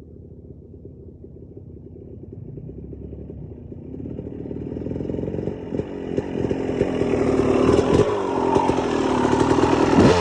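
Dirt bike engine that starts faint and grows steadily louder, with scattered clicks and rattles. Near the end its pitch drops sharply.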